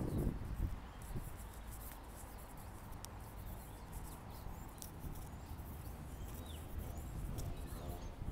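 Birds chirping faintly in scattered short calls over a steady low outdoor rumble.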